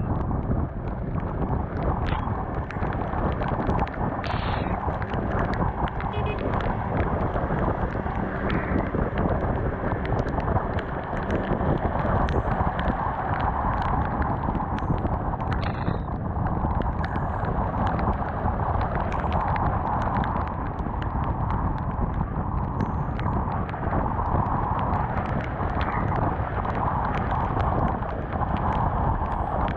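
Wind buffeting the camera microphone on a moving Honda CBR250R motorcycle, with the bike's single-cylinder engine and tyres on wet road running underneath, and occasional sharp ticks.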